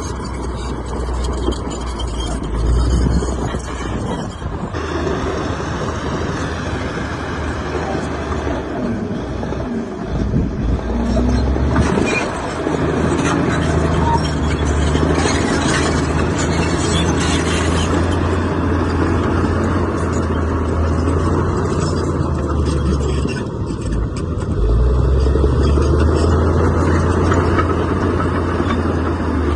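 Heavy diesel machinery running continuously, its engine note rising and falling with changing load, with brief dips in the low rumble a few times.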